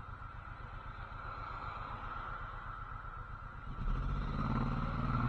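Motorcycle engine running low and steady, then getting louder as it pulls away about four seconds in.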